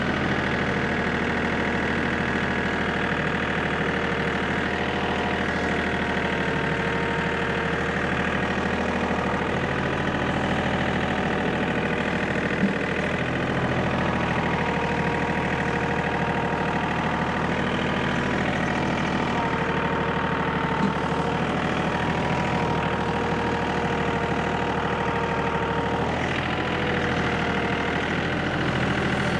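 Tractor engine running steadily at an even speed, with two faint sharp ticks in the middle of the stretch.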